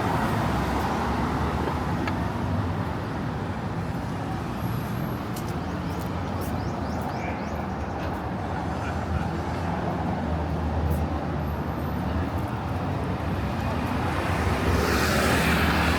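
City street traffic: a steady rumble of car and motorbike engines and tyre noise, with a louder vehicle passing close by near the end.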